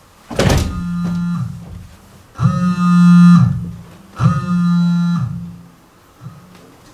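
Music: an instrument plays three long held notes, each about a second, after a sharp knock about half a second in.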